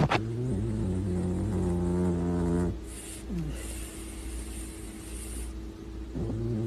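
A sharp knock, then a low, drawn-out animal call that breaks off after about two and a half seconds, a hiss, and the low call starting again near the end.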